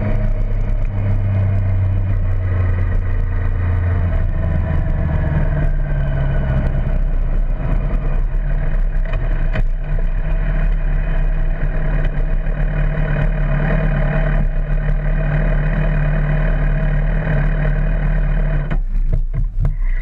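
Motorcycle engine running at low revs while riding slowly, its pitch easing down over the first few seconds and then holding steady. It cuts off near the end.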